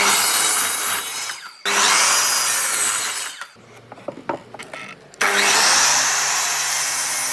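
A power tool working wood in three loud runs, each starting abruptly, with a quieter gap of about two seconds before the last.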